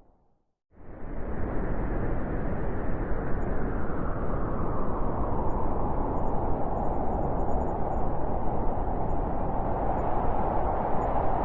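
Blizzard wind blowing steadily, a dense rushing noise without pitch. It cuts in abruptly less than a second in, after a brief silence.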